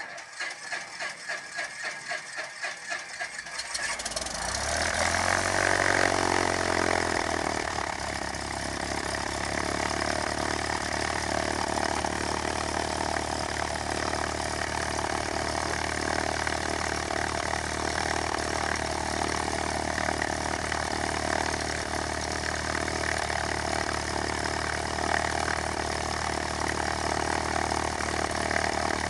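Cessna 172K's four-cylinder Lycoming engine being started: the starter cranks it over with a steady pulse of about four turns a second, the engine catches about four seconds in, runs up briefly, then settles into a steady idle.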